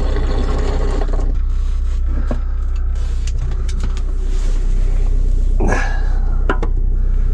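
RV engine idling steadily as it warms up on a cold morning, a low constant hum inside the cabin. A few short clatters sound over it.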